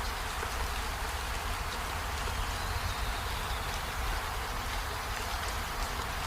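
Steady rain falling, an even hiss with a deep low rumble beneath it and faint scattered drop ticks.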